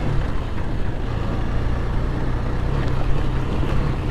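KTM 250 Duke's single-cylinder engine running at steady low revs.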